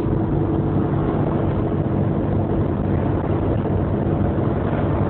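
Car driving at a steady speed, heard from inside the cabin: even road and engine noise with a faint steady hum.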